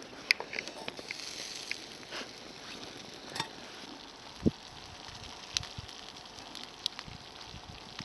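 Wood campfire crackling: a steady hiss with scattered sharp pops, and one duller knock about halfway through.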